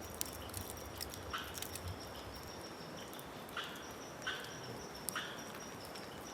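Several short, faint animal calls spaced a second or so apart, over a steady hiss with a thin high tone.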